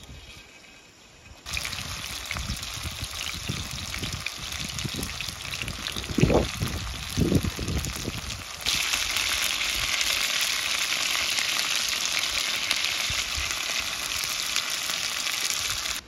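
Food sizzling as it fries in hot oil, the sizzle starting suddenly a second and a half in and getting louder about halfway through. Two low thumps near the middle.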